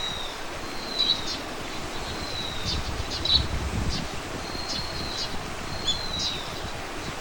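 A songbird calling over and over: about five thin, slightly falling high whistles, each run together with a few short sharp notes, roughly one every second or so.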